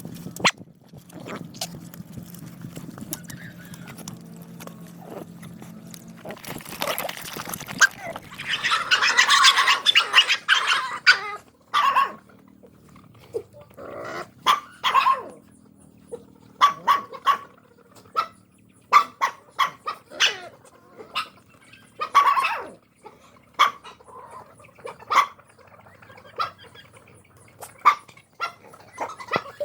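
Several dogs at feeding time making many short, sharp yelps and barks, scattered irregularly through the second half. A loud rushing noise comes about nine to eleven seconds in.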